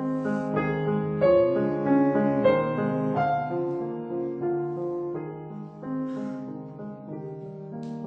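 Solo piano playing a slow classical passage, single notes and chords sounding one after another and ringing on as they fade.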